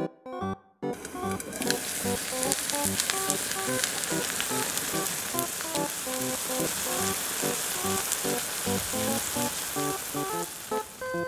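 Chikuwa and flour-batter pancake sizzling in a frying pan, a steady hiss with scattered crackles that starts about a second in and stops shortly before the end, over playful background music.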